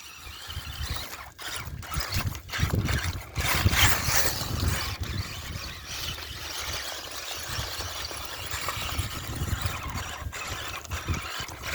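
Brushless Axial Wraith RC truck running through wet mud, with wind buffeting the microphone.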